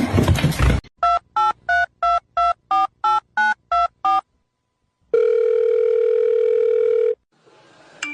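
Telephone keypad tones: about ten quick dialing beeps, each a pair of tones sounding together, followed after a short gap by one steady tone about two seconds long.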